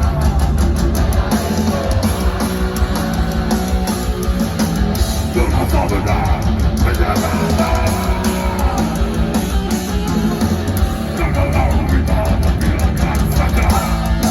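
Heavy metal band playing loud and live, with electric guitars, a heavy bass and rapid drumming.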